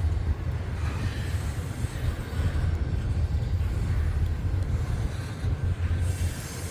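Freight train passing with a steady low rumble that eases off near the end.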